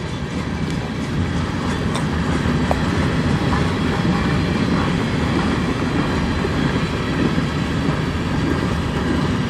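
Canadian National freight train's cars rolling steadily past, their wheels running on the rails with an even, continuous noise that grows slightly louder.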